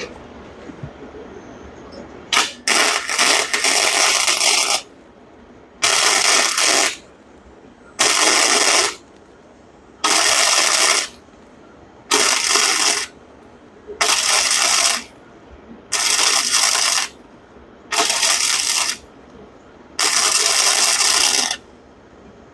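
Electric arc welding of an exhaust V-band flange in short stitches: nine hissing bursts, the first about two seconds long, then eight of about a second each, one every two seconds.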